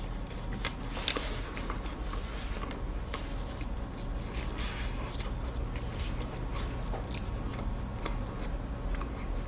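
Chewing and biting of a flaky, syrup-glazed butterfly puff pastry (나비파이), a steady run of many small crisp crackles as the layers break up in the mouth.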